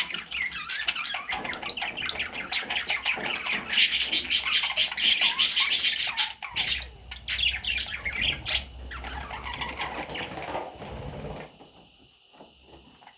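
Baby budgerigars squawking and chirping in a dense, continuous chatter. It is loudest and busiest about a third of the way in, then thins out to a few softer calls near the end.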